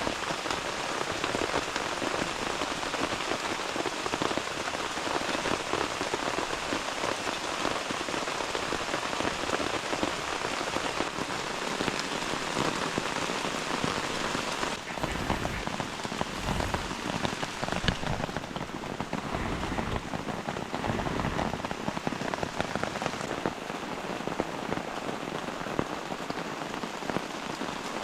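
Heavy rain pouring steadily in a storm, with a low rumble through the middle.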